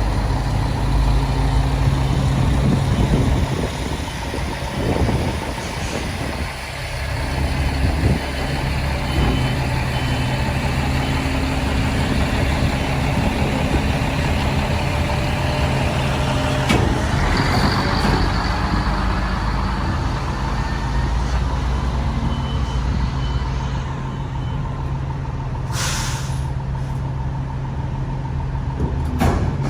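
Diesel engine of a Peterbilt 320 rear-loader garbage truck running steadily, its note shifting for a few seconds early on. About 26 s in, a short sharp hiss of released air cuts in.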